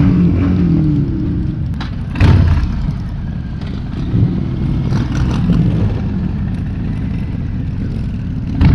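Motorcycle engines running at cruising speed during a group ride, with wind rushing over the microphone. A brief loud surge comes about two seconds in.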